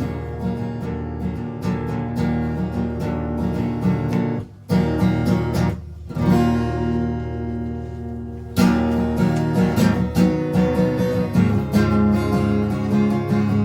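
Live band music led by a strummed guitar, with no singing. It breaks off briefly about four and a half seconds in, then a new song begins louder about eight and a half seconds in.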